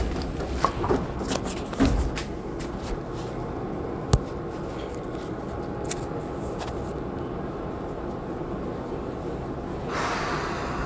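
Tobu 20400-series electric train heard from inside a motor car as it pulls out: a steady low running rumble with a few scattered clicks and knocks, the sharpest about four seconds in.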